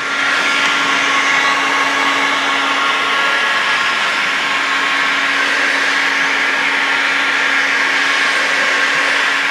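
Heat gun blowing steadily with a constant fan hum, warming the aluminium crankcase of a Simson M500 engine so the bearings can come out of their seats when the case is split.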